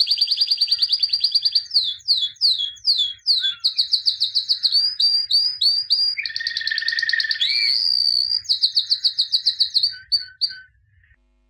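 A songbird singing a long, varied song of rapid trills and repeated down-slurred whistled notes, stopping shortly before the end.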